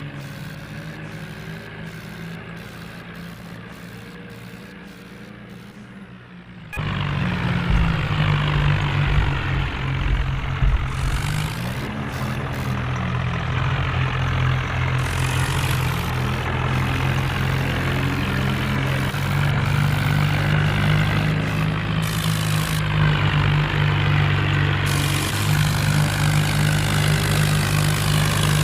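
Tractor engine running steadily, jumping suddenly much louder about seven seconds in and staying loud after that.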